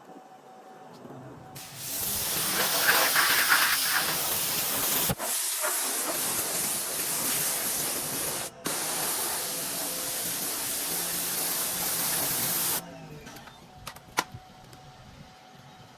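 Electric pressure washer spraying water: a loud, steady hiss of the jet starting about one and a half seconds in, cut briefly twice, and stopping near the end.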